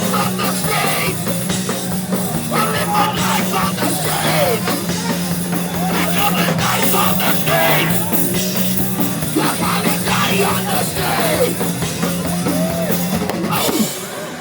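Hardcore punk band playing live: distorted guitars, bass and drums under shouted vocals, heard from within the crowd. The music drops out abruptly near the end.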